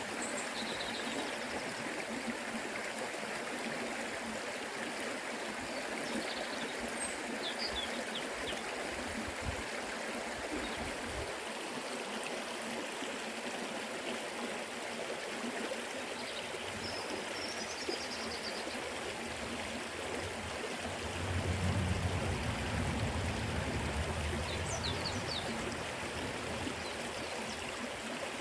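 Forest river flowing over rocks: a steady rushing and trickling of water. A deeper low rush swells for a few seconds about three quarters of the way through, and a few short, faint high chirps come and go above the water.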